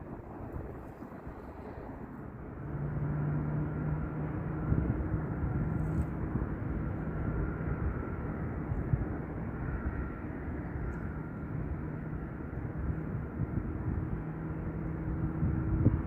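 Jet airliner engines rumbling as a Jet2 plane passes. The sound swells about three seconds in, then holds as a steady rumble with a low hum running through it.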